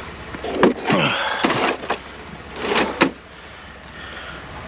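Knocks and scraping from a discarded object being handled, with a short falling creak about a second in and a sharp knock at about three seconds.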